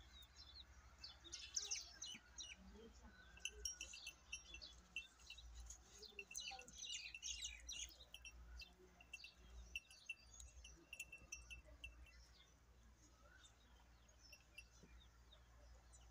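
Faint chirping of birds: many short, high calls, busiest in the first half and thinning out towards the end.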